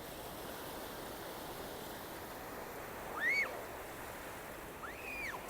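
Steady wash of sea surf, with two short, high calls that rise and fall in pitch, about three and five seconds in.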